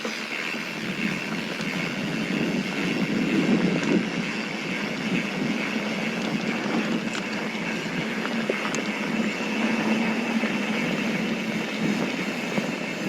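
Mountain bike rolling fast downhill on a dirt trail: a steady noise of tyres running over loose dirt and gravel, with the bike rattling.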